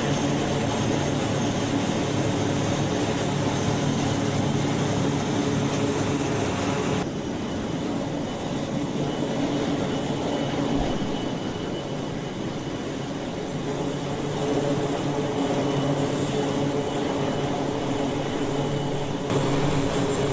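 Aircraft engines running on an aircraft carrier flight deck: a steady, loud drone with several held tones. The sound changes abruptly about seven seconds in, and again near the end.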